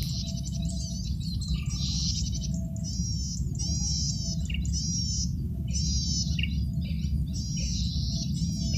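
Male cisticola singing a fast, high song in short bursts of quick, buzzy notes, one phrase about every second, over a steady low hum.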